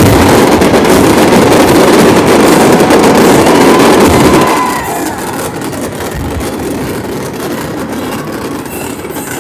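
Dense, continuous barrage of fireworks bursts at near full loudness, ending about four and a half seconds in. A quieter steady noise follows.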